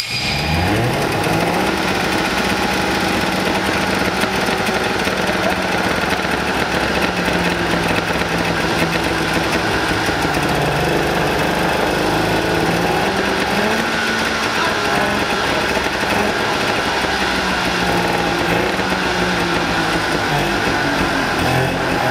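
Tuned 1963 Saab 96 rally car's three-cylinder two-stroke engine catching and revving up in the first second or two, then running on with its revs rising and falling.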